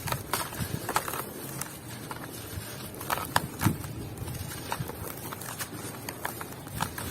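Dry, dusty lumps crumbling and breaking up, an irregular run of small crunches and crackles with a few sharper snaps.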